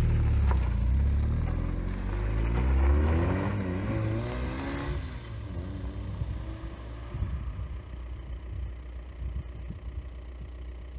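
Car engine revving, its pitch climbing for about five seconds, then falling back to a low, uneven rumble.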